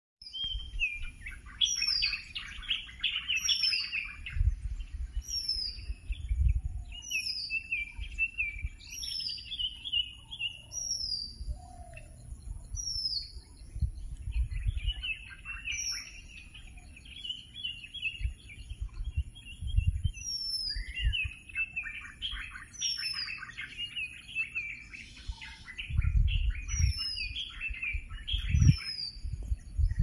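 Birds singing, among them a red-whiskered bulbul: a high falling whistle repeats about once a second throughout, overlaid by bursts of quick chirping notes. Dull low rumbles come and go.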